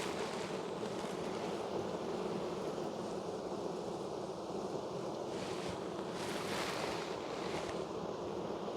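Steady buzzing of a large mass of honey bees around an open, crowded hive, with a few brief swells of hiss partway through.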